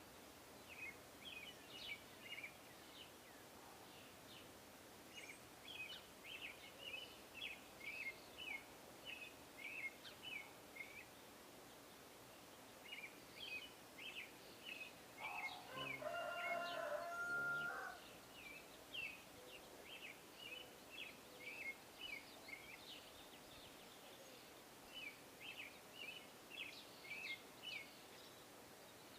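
Small songbirds chirping in repeated quick series of high notes, bout after bout with short pauses. About halfway through, a lower, pitched call lasting about two seconds stands out as the loudest sound.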